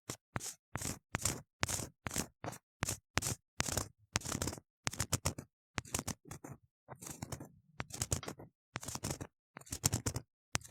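Ear-cleaning tool scraping hard inside a silicone ear model close to the microphone: a run of short scratchy strokes, about two to three a second, with silence between them.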